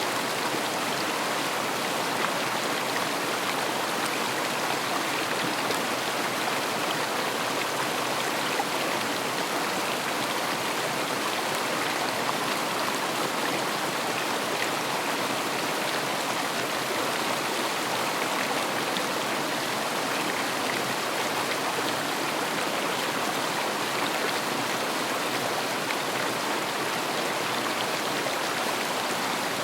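A river flowing steadily: continuous rushing, splashing water noise with no changes.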